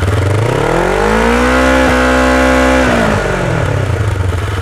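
2006 Kawasaki Ninja 650R's parallel-twin engine through its stock (OEM) exhaust, revved up from idle, held high for about a second, then dropping back to idle.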